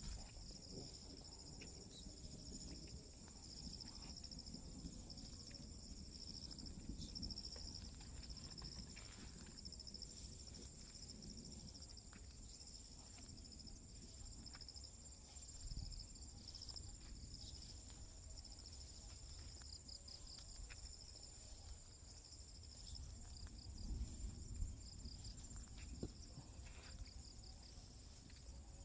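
Countryside insects chirring steadily in two high, continuous bands, faint, over a low rumble. A few soft clicks and knocks stand out, about halfway through and again near the end.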